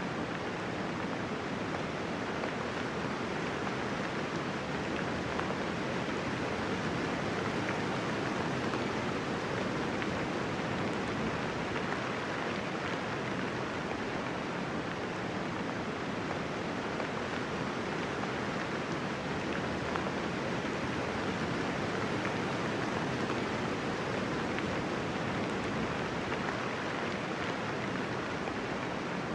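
Steady light rain falling, an even hiss of raindrops with no thunder.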